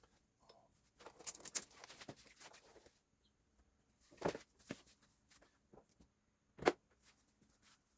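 Scattered clicks and knocks of tools and parts being handled during tractor axle work: a short rattling clatter about a second in, then two sharper knocks, the louder one near the end.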